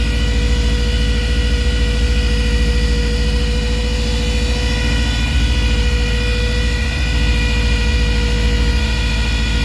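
1985 GMC Sierra C2500 pickup engine idling, with a steady high whistle over the low rumble: the sound of a vacuum leak.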